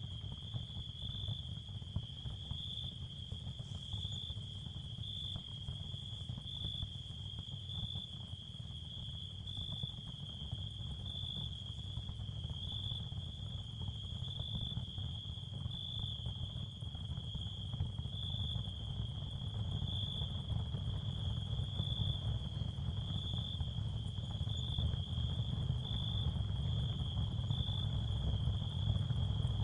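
Ambient sound-therapy soundscape: a steady high cricket-like chirping that pulses about once a second, over a low rumbling noise bed that grows a little louder near the end.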